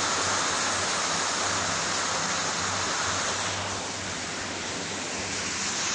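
Heavy rain falling steadily, an even hiss that eases slightly around the middle.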